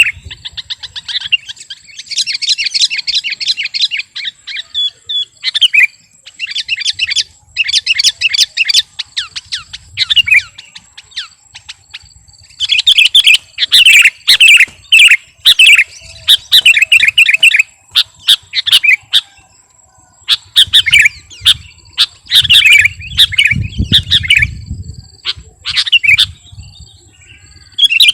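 Sooty-headed bulbul (kutilang) in full song: loud bursts of rapid chattering, warbling notes, each phrase a second or two long with short pauses between them. A faint steady high tone runs beneath.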